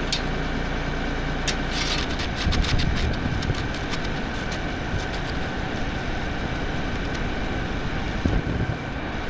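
Diesel tractor engine running steadily, with scattered clicks and knocks and a few low thumps.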